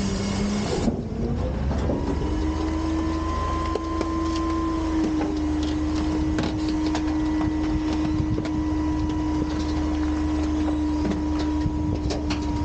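Autocar/Heil Freedom half-pack front-loader garbage truck running: a steady whine over a low engine drone, with scattered light clanks.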